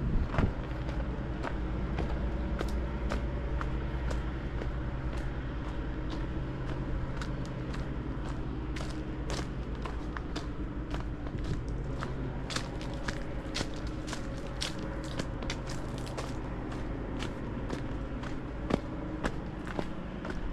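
Footsteps of a person walking along a path at a steady pace, about two steps a second, with a steady low hum underneath.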